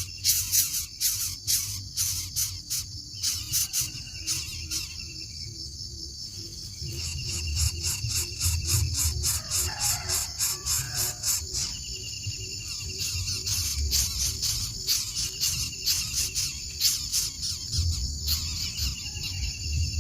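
Insects chirping: a steady high-pitched buzz broken by rapid clicks, with a short trill repeating every second or two.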